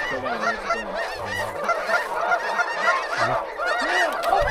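A flock of geese honking, many short calls overlapping in a dense chorus.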